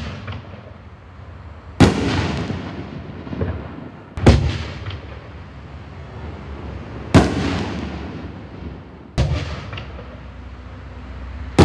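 Black Cat Diablo 24-shot firework shells going off in turn: five sharp bangs about two to three seconds apart, each trailing off in a long echoing rumble.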